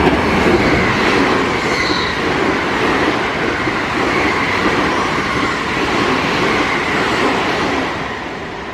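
Electric train on the JR Kyoto Line running past on the rails, a steady, loud wheel-and-rail noise that eases a little near the end.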